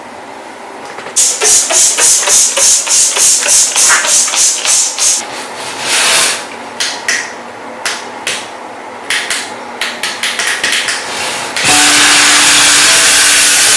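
A run of quick rhythmic cleaning strokes, a short hissing scrape each, about three a second, thinning out to scattered strokes. Near the end a steady spray of shower water starts suddenly.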